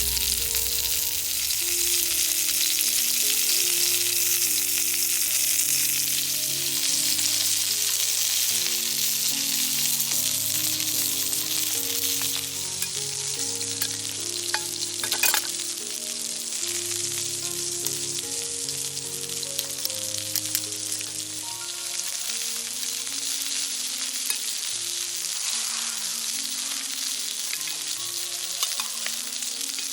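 Campfire sizzling and crackling: a steady hiss with scattered pops, one louder pop about halfway through. Soft background music with slow sustained notes plays under it.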